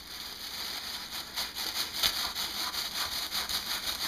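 A knife sawing and scraping at a frozen bundt cake, quick rasping strokes about four a second that start about a second in; the cake is frozen too hard for the knife to cut through.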